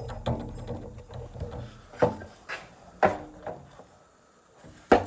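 A series of sharp wooden knocks and clatter, about half a second apart in pairs, from tools and fittings being handled on a wooden door. The saw is not running.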